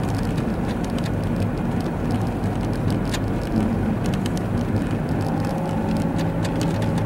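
Steady low engine and road rumble heard inside a car's cabin while driving slowly through snow, with scattered light clicks. A faint steady hum comes in about five seconds in.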